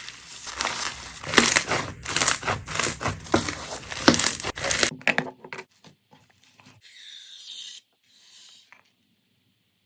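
Slime being squeezed and pressed by hand, a dense run of crackling, crunching pops for about five seconds. After that it drops to a couple of faint, brief squishes.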